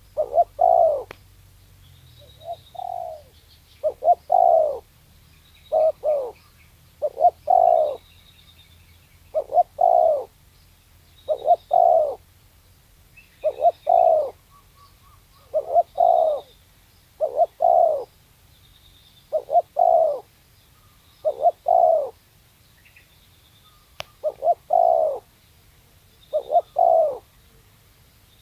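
Spotted dove (tekukur) cooing, a short doubled coo phrase repeated about every two seconds. Faint high chirps of small birds come between the coos.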